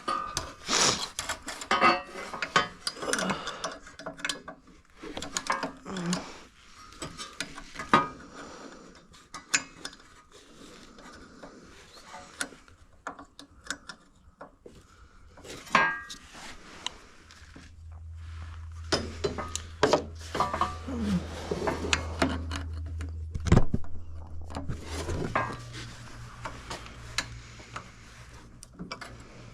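Irregular metal clinks and knocks of hand tools and parts being worked loose while a part is removed from a snowblower. A steady low hum comes in about two-thirds of the way through and steps up in pitch near the end.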